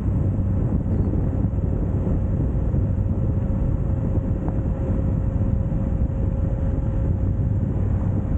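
Suzuki GSX1250FA's inline-four engine running at a steady pace under way, with wind rushing over the microphone.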